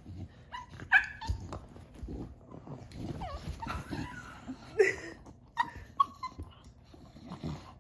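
Dog whining in short, high-pitched whimpers, several times, some sliding in pitch, as she struggles to get at something she can't open. A couple of sharp knocks sound among the whines.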